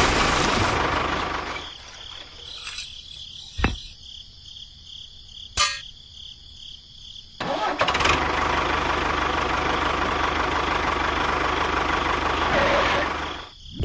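A motor running, winding down and stopping within the first two seconds; two sharp clicks in the quiet that follows; then the motor starting abruptly about halfway through and running steadily until just before the end.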